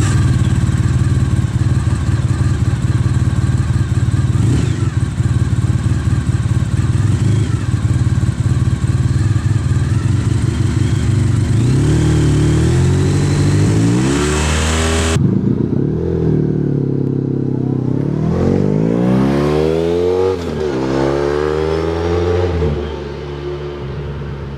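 Honda VFR1200F motorcycle's 76-degree V4, whose offset crankpins make it sound more like a two-cylinder than a four. It runs at steady high revs for several seconds, then revs up and down in repeated rising and falling sweeps, getting quieter near the end.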